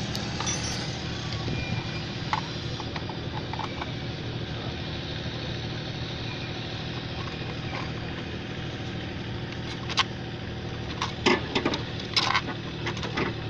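Toyota Highlander engine idling steadily, with a few sharp clicks in the last few seconds.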